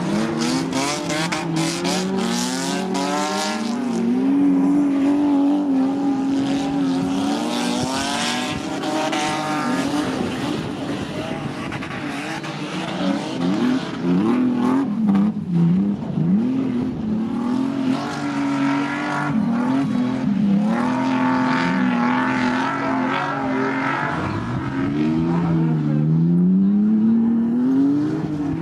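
Several banger race cars' engines revving and easing off as they race round the oval, their overlapping notes rising and falling in pitch throughout.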